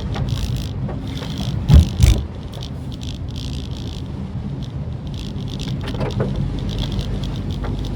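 Cabin sound of a Maruti Suzuki Swift Dzire on the move: a steady low rumble of engine and road noise, with two heavy thumps close together about two seconds in.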